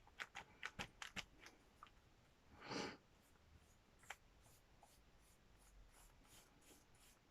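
Near silence: faint quick ticks and light scratching, like small handling at a table, then one brief soft hiss just under three seconds in.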